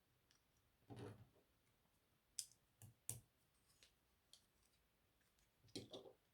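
Lego bricks being handled and pressed together: a scattering of faint, sharp clicks with a brief rustle about a second in.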